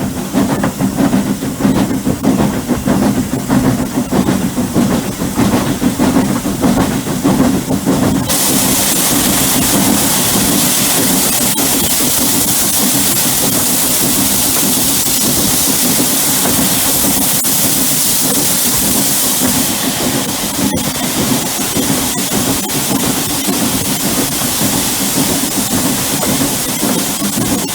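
Hunslet 0-6-0 saddle-tank steam locomotive with a fast run of beats over a steady low rumble. About 8 seconds in, a loud, steady hiss of steam starts suddenly and keeps on, easing slightly near the end.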